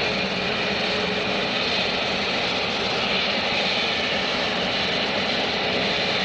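Jet airliner engines running, heard as a steady, even rush of noise with a faint steady tone underneath.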